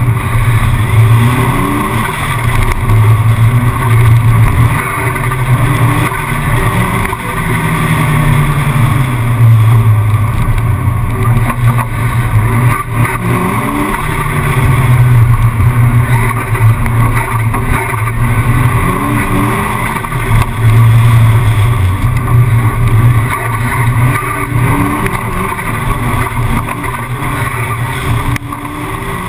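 Fiat Uno slalom car's engine revving hard through a cone course, heard onboard: the pitch climbs under acceleration and drops again and again as it shifts and lifts off between cones.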